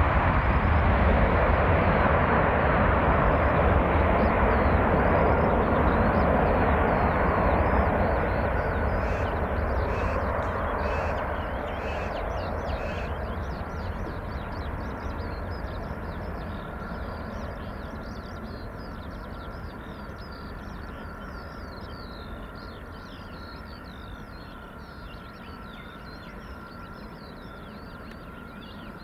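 Airbus A330-300 jet engines at takeoff power, a loud roar that holds for several seconds and then fades steadily as the airliner climbs away. From about a third of the way in, birds chirp over the dwindling engine sound.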